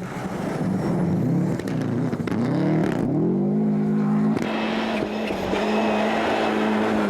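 Rally car engine at speed: the pitch rises and falls repeatedly with throttle and gear changes, then climbs and holds steady at high revs from about four seconds in.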